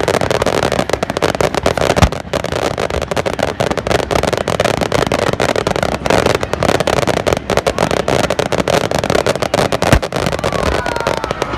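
Fireworks display: dense crackling from bursting shells, with two deep booms, one about two seconds in and one near the end.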